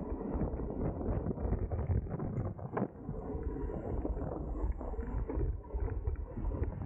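Wind rushing over the microphone of a racing cyclist's camera: a steady low rumble, with a few faint clicks.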